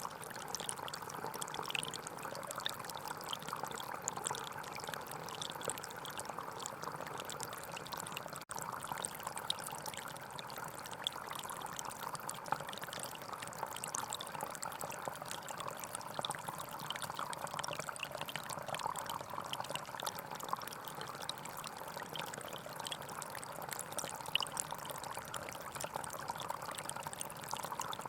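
Small forest stream flowing and splashing steadily over stones, its sound strongest in the middle range. There is a momentary break in the sound about eight seconds in.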